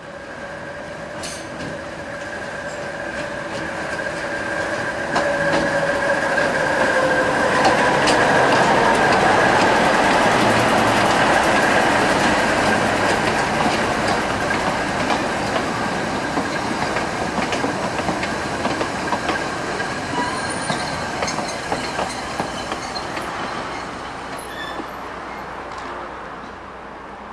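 Train running by on rails: the noise swells to its loudest about eight to ten seconds in, then slowly fades, with steady whining tones above it and sharp clicks of the wheels along the track.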